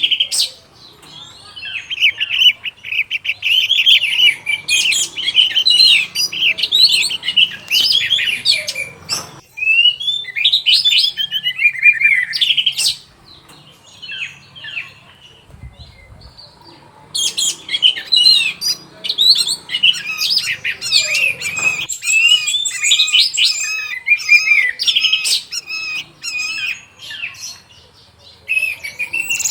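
Orange-headed thrush singing a rapid, varied song of quick whistled and chattering phrases. It breaks off for a few seconds midway and pauses again briefly near the end.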